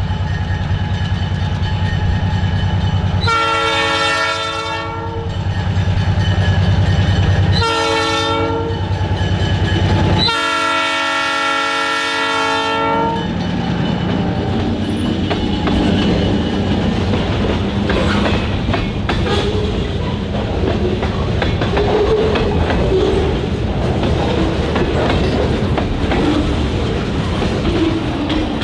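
Diesel freight locomotive sounding its air horn in three blasts, long, short, long, over the steady rumble of its engine. The train then rolls by with its wheels clicking over the rail joints.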